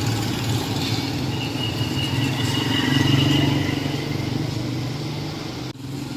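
Street traffic: a motor vehicle engine running close by with a high whine over it. It grows to its loudest about three seconds in and then eases off. The sound breaks off sharply for a moment near the end.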